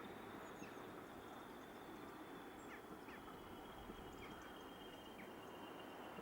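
Faint outdoor ambience: a steady low rumble and a thin steady high tone, with a few short bird chirps scattered through.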